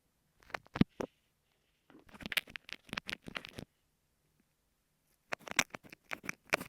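Kinetic sand slime squished and pressed on an earphone microphone, heard as clusters of sticky, crackling clicks. There is a short cluster near the start, a longer run about two seconds in, and another near the end, with silence between.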